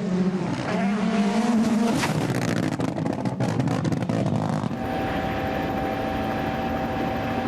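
Rally car engine revving hard, its pitch rising for about two seconds, then running at full throttle with a rapid crackle. Partway through the sound cuts abruptly to a steady drone with a held tone.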